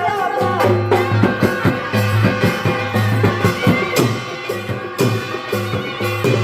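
Instrumental interlude of an Odia Danda devotional folk song: hand drums beaten in a quick, busy rhythm over a held melody line.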